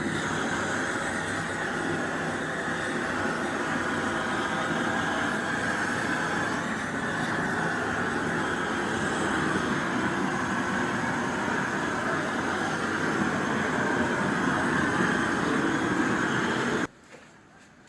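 A loud machine running steadily with an even, rushing noise, which cuts off abruptly near the end.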